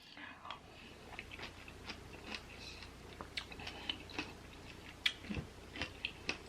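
Close-up chewing of a mouthful of berries and pomegranate seeds, faint, with small crunches and wet clicks scattered throughout.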